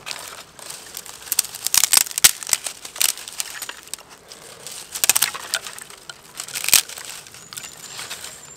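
Irregular crunching and crackling of dry leaves and twigs, in uneven clusters of sharp snaps.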